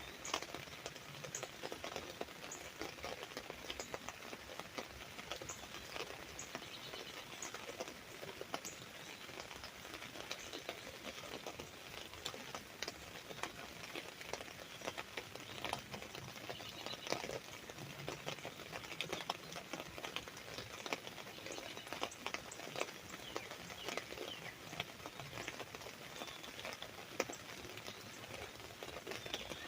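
Rain drumming steadily on an umbrella's fabric canopy: a dense, even patter of countless small drop hits.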